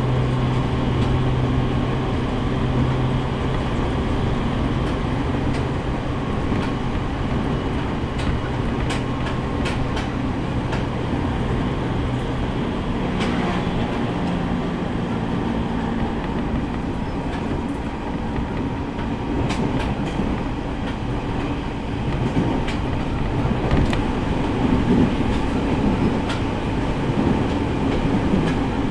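E501 series electric multiple unit running at speed, heard from inside the car: steady running noise with a low motor hum that shifts in pitch about halfway through, and wheels clicking over rail joints.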